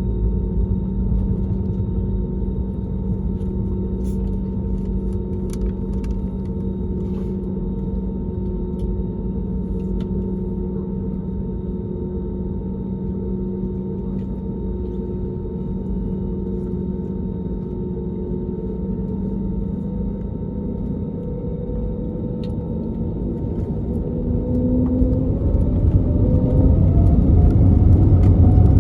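Steady cabin rumble and hum of an Airbus A320neo with its CFM LEAP-1A engines at low thrust. About 24 seconds in the engines spool up: a rising whine over a growing rumble.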